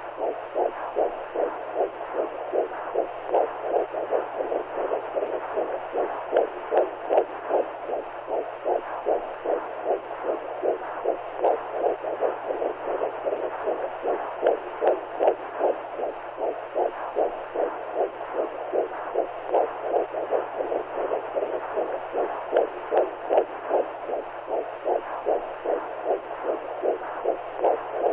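Womb sound for soothing a newborn: a whooshing heartbeat pulse, as heard inside the uterus, repeating in quick, even beats over a steady low hum.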